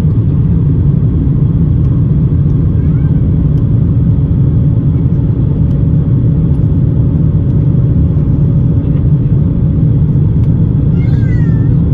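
Steady low rumble of an Airbus A350 with Rolls-Royce Trent XWB engines, heard from inside the passenger cabin as engine and airflow noise under power.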